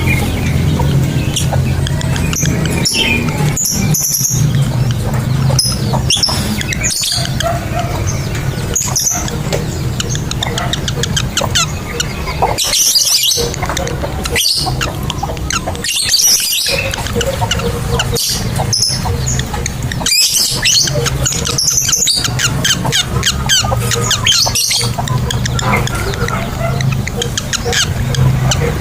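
Lovebirds chattering in long runs of rapid, shrill, high-pitched chirps and screeches, over a steady low hum.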